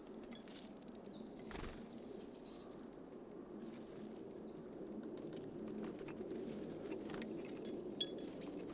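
Small songbirds at a seed feeder: brief wing flutters, several thin, high call notes, and a few sharp clicks, the loudest near the end. A steady low background hum runs underneath.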